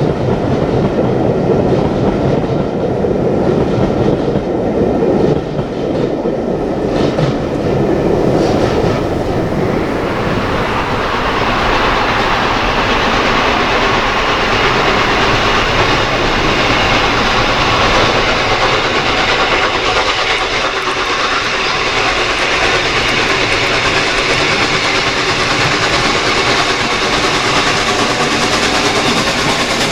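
Steam-hauled train passing on the line, its wheels running over the rails. The sound grows brighter and fuller about ten seconds in as the train comes closest, then holds steady.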